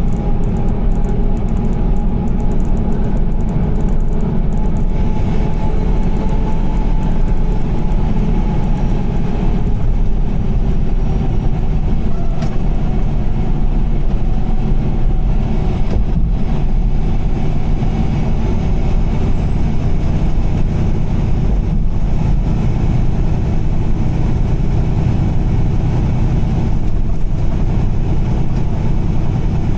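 Steady low road noise of a car driving on a rain-soaked highway: tyres on wet pavement and the engine running at cruising speed.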